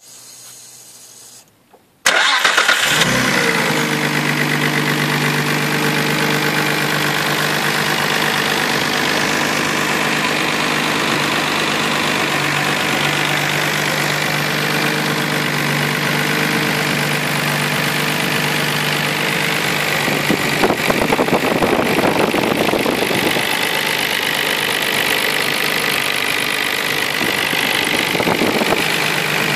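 Nissan Skyline GT-R R34's RB26DETT twin-turbo straight-six starting. It catches abruptly about two seconds in and settles into a steady idle, with a slight swell about twenty seconds in.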